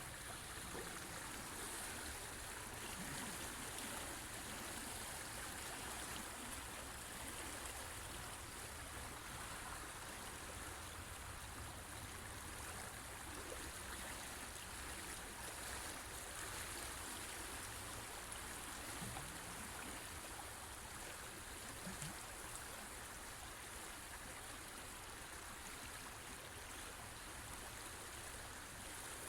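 River water flowing steadily, a continuous even rushing sound.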